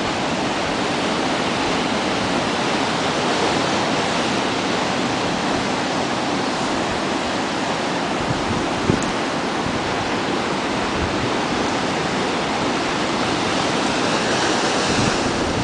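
Ocean surf breaking and washing ashore in a steady, continuous rush, with one brief knock about nine seconds in.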